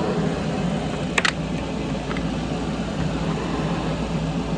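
A steady low machine drone, with one short sharp click about a second in.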